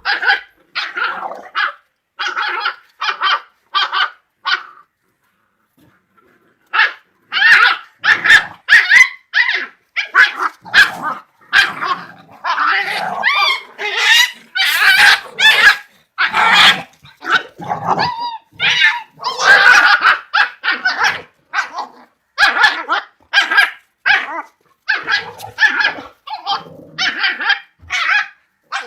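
Kombai dogs barking during a puppy fight: a run of short barks, a pause about five seconds in, then loud, dense, overlapping barking from about seven seconds on.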